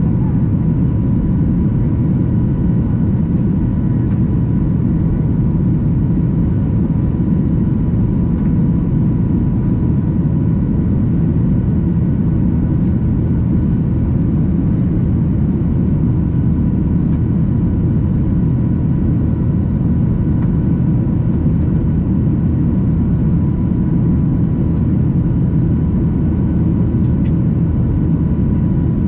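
Steady cabin noise inside a Boeing 737-800 climbing out: an even, deep roar of its CFM56-7B engines and the airflow, with a faint steady whine above it.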